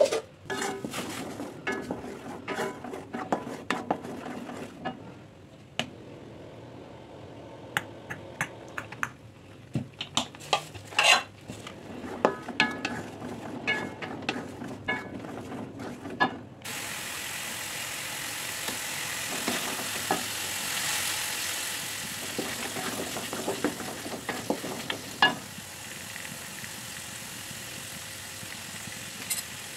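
Ground chili and tomato spice paste frying in an aluminium wok, stirred and scraped with a wooden spatula, with irregular scraping clicks. About halfway through, a steady sizzling hiss starts suddenly and keeps on under the stirring.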